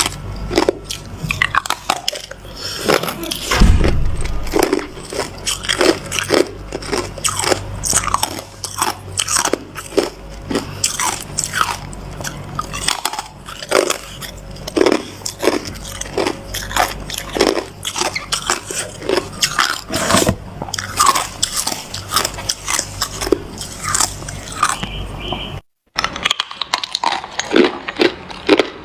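Hard ice being bitten and crunched in the mouth close to the microphone: a rapid run of sharp, crackly crunches, one bite after another, broken by a brief cut to silence near the end.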